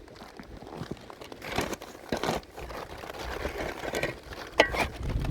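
Irregular crinkling and rustling of material being handled, with a few sharp clicks, the sharpest near the end.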